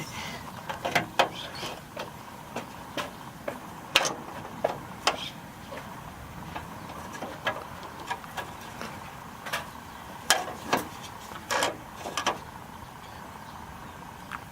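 Irregular sharp clicks and knocks, about a dozen, from metal pieces and tools being handled and set against a car's chassis during fabrication work.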